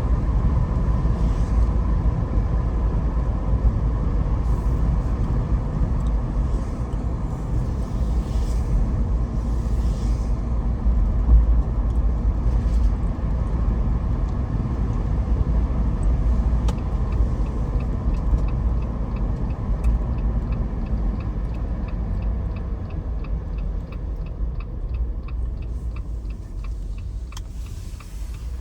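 Jeep driving, heard from inside the cabin: a steady low rumble of engine and road noise. From a little past the middle a light, regular ticking, about two a second, runs alongside it.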